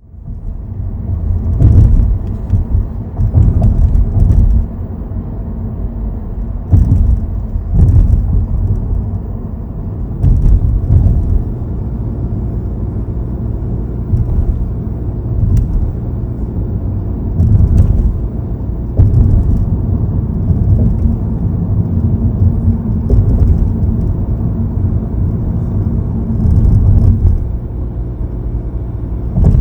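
Nissan Note Aura cabin while driving: steady low road rumble that swells now and then, with brief high clicks or rattles every few seconds. These clicks are the abnormal noise the owner is trying to track down.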